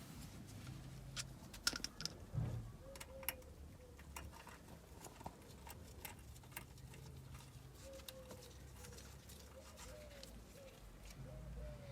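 Faint cooing of a dove, short low arched notes repeated in small groups, with scattered light clicks and taps.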